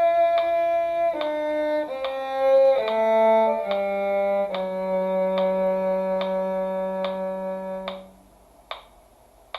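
Violin and cello playing a slow two-part duet passage over a metronome clicking about every 0.8 seconds. The two parts settle on a long held chord that stops about eight seconds in, and the metronome clicks go on alone.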